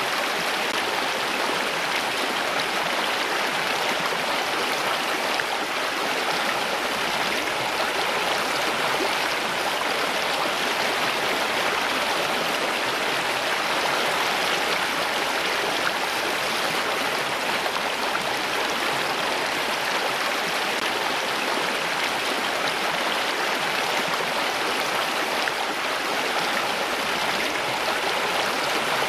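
Flowing water, like a stream, running in a steady, even rush with no pauses or separate drips.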